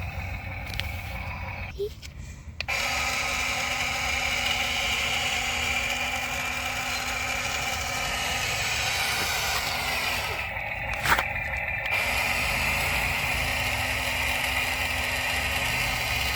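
Toy RC excavator's small electric motors and plastic gears whirring steadily as it is worked, starting a few seconds in, with a short break and a click a little past the middle.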